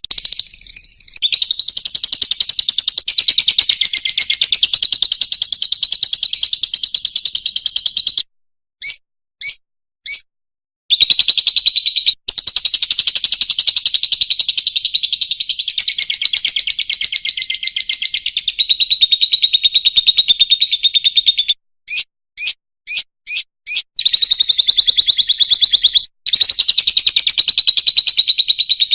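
Fischer's lovebird singing: long bouts of fast, shrill chattering, twice broken by a short run of separate chirps.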